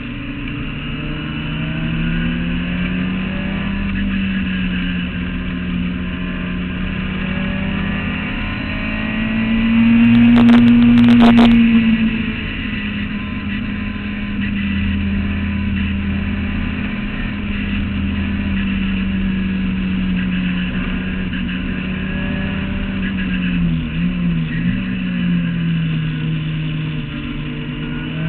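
Clubman sports racing car's engine at speed on track, heard from the open cockpit, its note rising and falling through the lap. It is loudest and highest about ten seconds in, and near the end the pitch briefly dips and picks up again.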